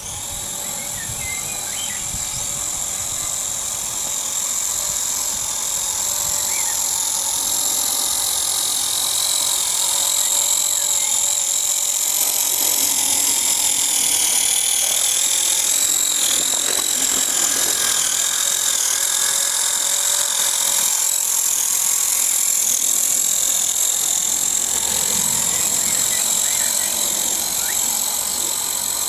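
Electric motor and gear drivetrain of a home-built steel RC truck, a Tamiya TZ motor, running with a steady high-pitched whine that grows somewhat louder over the first several seconds and then holds.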